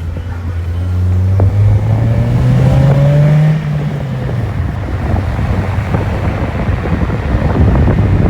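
Car engine running, rising in pitch as it accelerates for a couple of seconds, then dropping back about three and a half seconds in and carrying on at a steady drone.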